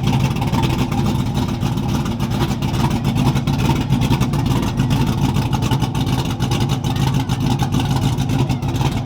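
A car engine running loudly and steadily close by, a low even drone without revving, starting and stopping abruptly.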